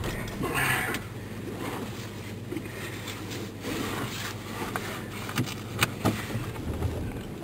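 Vehicle engine running steadily, heard from inside the cabin, with a short rustle about half a second in and a few sharp clicks and knocks near the end.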